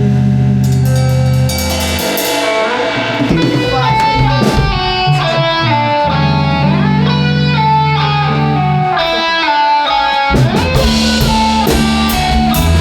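Band music with no vocals: guitar playing a melodic lead line with bending notes over bass guitar and drum kit.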